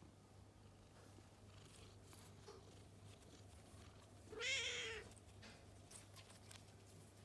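Domestic cat giving one short, wavering meow about four seconds in, over a quiet background with a few faint clicks.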